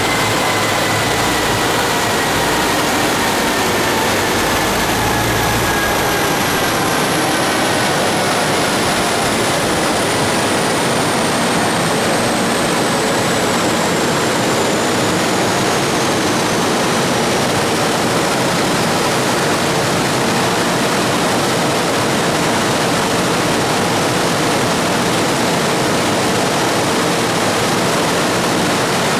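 Steady loud rushing roar on a chassis dyno, with a whine falling steadily in pitch over the first several seconds as the supercharged LS9 V8 and dyno rollers wind down.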